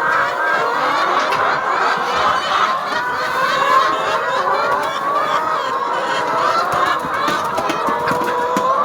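A flock of chickens calling, many overlapping calls at once in a continuous din.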